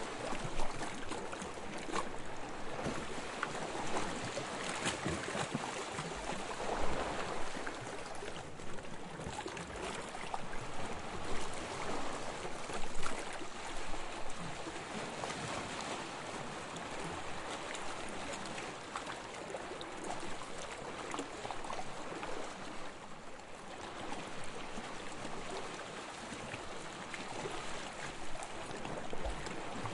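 Small waves lapping on a sandy shore: a continuous soft wash of water, with irregular louder surges as waves come in.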